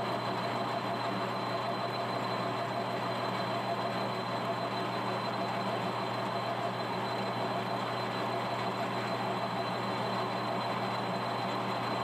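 Monarch engine lathe running steadily: a constant mechanical hum with a faint, steady high whine above it.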